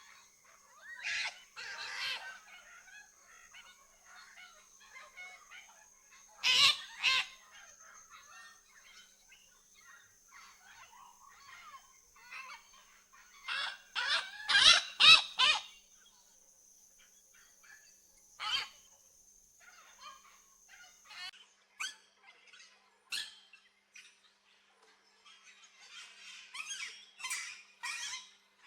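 Aviary birds giving harsh squawking calls in scattered bursts, the loudest a quick run of about four squawks near the middle. A thin, steady high-pitched whine sounds behind them and stops about two-thirds of the way through.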